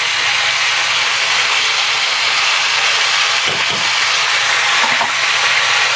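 Cabbage, peas and tomato sizzling steadily as they fry with spices in a steel pan. A short patter about three and a half seconds in as dry red lentils are tipped onto the vegetables.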